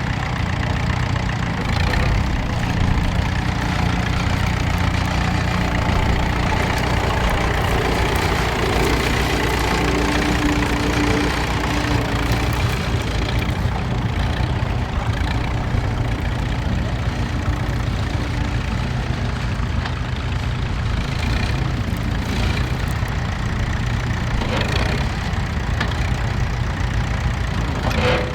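Massey Ferguson tractor engine running steadily.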